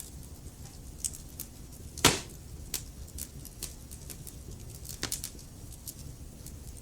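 Wood fire crackling in a fireplace: scattered sharp pops over a low steady rumble of the flames, with one loud crack about two seconds in and a cluster of smaller pops about five seconds in.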